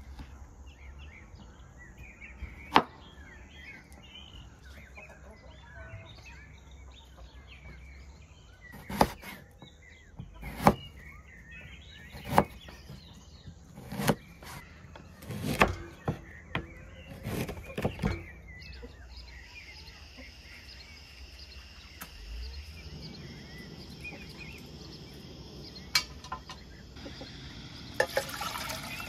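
A kitchen knife slicing hard quince on a wooden cutting board: sharp chops against the board, one early and then a run of them about every second and a half through the middle, with birds chirping behind. Near the end a steady hiss and a few clicks take over as she works at the gas stove.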